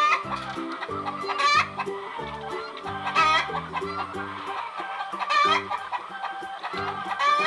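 Chicken clucking, about five drawn-out clucks spaced a second or two apart, over light background music.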